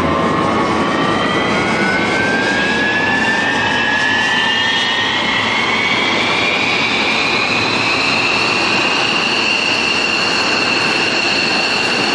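Jet aircraft engines spooling up: a rising whine over a steady rush that climbs for about nine seconds and then levels off.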